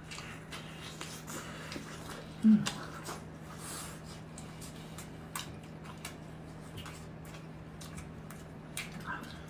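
Chewing and mouth smacks of people eating crispy pan-fried stuffed pies: scattered soft clicks over a steady low hum, with a short hummed 'mm' about two and a half seconds in.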